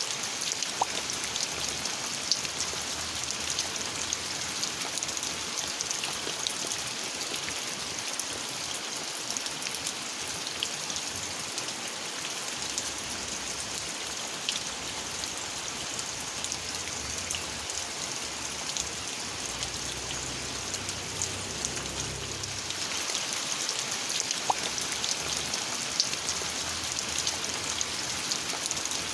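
Steady rainfall with many distinct drops pattering on surfaces, the hiss growing a little brighter about three quarters of the way through.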